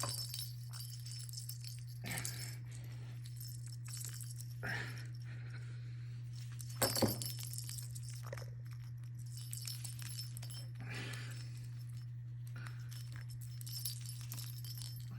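Scattered light clinks and rattles of a small toy ball being gripped and tugged by a pet conure, the loudest clink about seven seconds in, over a steady low hum.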